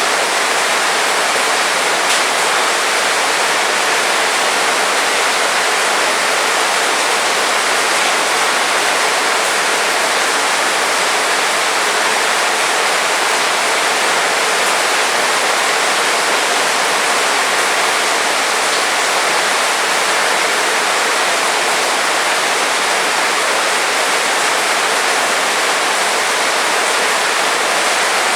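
Heavy rain falling steadily, a dense even hiss with no distinct drops or breaks.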